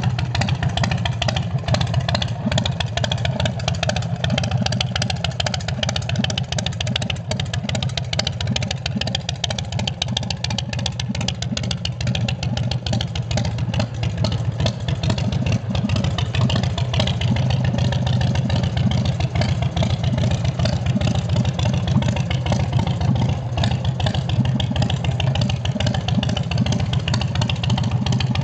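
2006 Big Dog Mastiff chopper's carbureted 117 cubic inch S&S V-twin idling steadily through 2-into-1 drag pipes, a rapid deep exhaust pulse that grows a little louder about halfway through.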